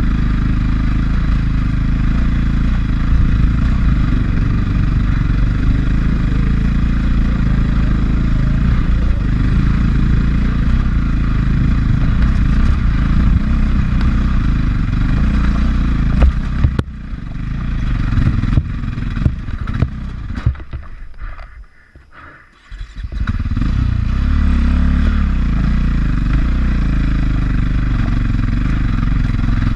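450 four-stroke dirt bike engine running steadily under way on a trail, heard from the rider's helmet. About 17 seconds in the engine sound falls away amid knocks and clatter and goes nearly quiet for a second or two, then the engine is running steadily again.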